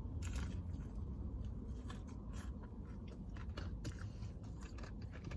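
A person chewing a chicken sandwich close to the microphone: irregular wet clicks and light crunches of mouth sounds.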